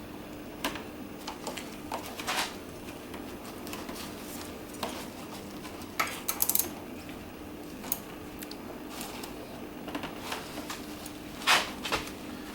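Scattered metallic clicks and clinks of hand tools working on a motorcycle's front brake-line fitting, with a short cluster of them about six seconds in.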